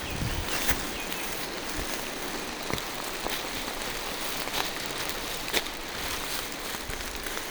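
Steady rain falling through forest trees, with scattered sharper drops ticking through the hiss.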